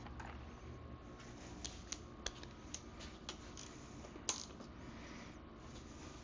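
Hand tools clicking and tapping on a dirt bike's rear chain adjusters as they are backed off: about half a dozen short metallic clicks, the loudest a little past four seconds in.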